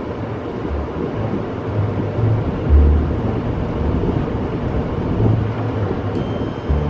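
Automatic car wash heard from inside the car: a steady rushing wash of water and machinery over the car's body, with irregular low thuds.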